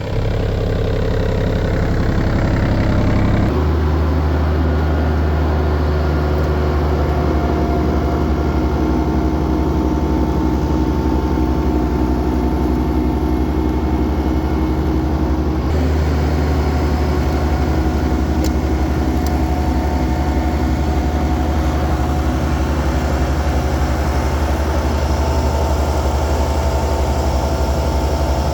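Kioti CS2510 subcompact tractor's three-cylinder diesel engine running steadily with a front-mounted snow blower. Its tone shifts about three and a half seconds in and again about sixteen seconds in.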